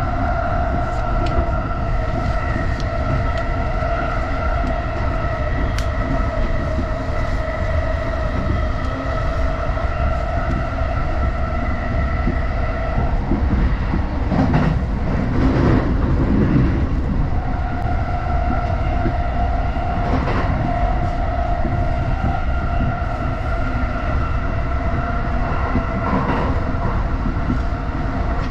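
Inside a JR Chuo Line rapid electric train running at speed: a steady rumble of wheels on the track with a steady motor whine. The whine drops out for a few seconds about halfway, while a louder rush of rumbling noise passes.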